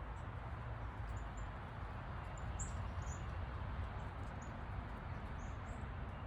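Small birds giving short, high chirps, about ten scattered through, over a steady hiss and low rumble.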